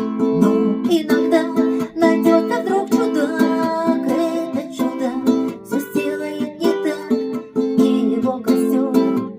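Guitar played without singing: rhythmic strummed chords with a melody line picked over them.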